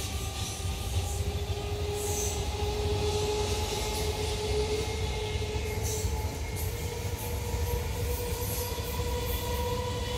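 Indian Railways electric multiple unit (EMU) local train running past close by: a steady rumble of wheels on rail with a whine that slowly rises in pitch, and brief hissy clatters every few seconds.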